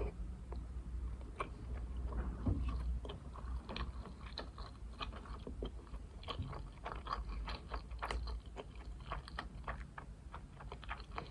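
Close-miked chewing of sushi: a quick, irregular run of wet mouth clicks and smacks.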